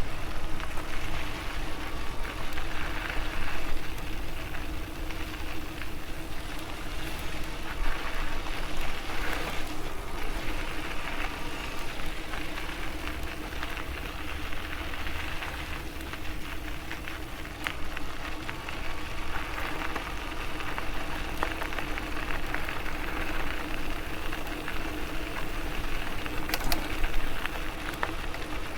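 Electric bicycle in motion: a steady hum runs over rolling tyre noise and low wind rumble on the bike-mounted microphone. Small clicks and rattles are scattered through it, with one sharper click near the end.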